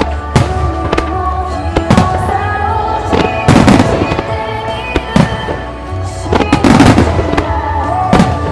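A starmine fireworks display bursting over its accompanying music: a steady run of sharp bangs, with two thick volleys of bursts about three and a half and seven seconds in.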